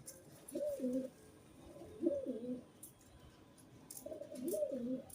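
Pigeon cooing: three low, warbling coo phrases about two seconds apart.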